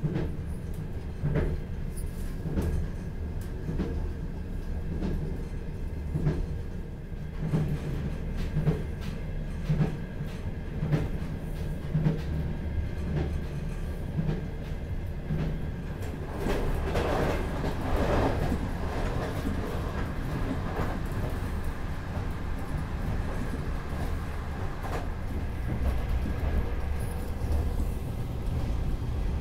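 A Russian electric-hauled passenger sleeper train running at speed: a steady low rumble of wheels on rail with a regular click about every second and a quarter as the wheels cross rail joints. The running noise swells for a few seconds a little past the middle.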